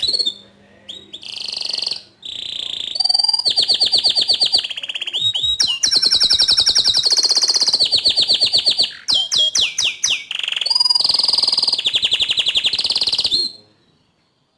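Bottle-green canary singing a long, continuous song of fast trills and rapidly repeated notes, with a few quick falling whistles about two thirds of the way in; the song stops about a second before the end.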